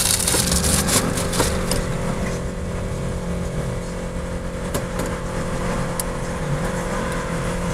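Vehicle engine idling, heard from inside the cab, with a few clicks and knocks, mostly in the first two seconds.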